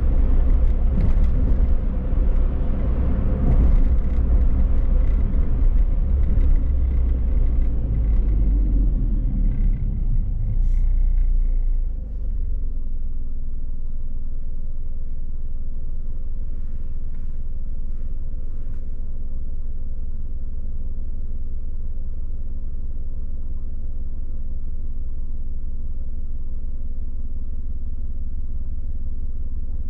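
Car driving, with low rumble and road noise that die away as it slows and comes to a stop about twelve seconds in; after that, a steady low hum of the car standing with its engine idling.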